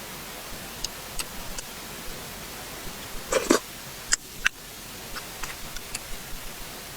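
Close-miked eating mouth sounds: scattered wet clicks and smacks of chewing, with a louder smacking burst about three and a half seconds in.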